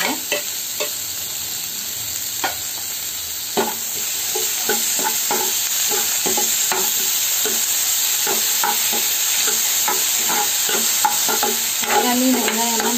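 Chopped onions, green chillies and tomatoes sizzling in hot oil in a kadai while a metal spatula stirs them, with irregular scrapes and clicks of the spatula against the pan. The sizzle gets louder about four seconds in.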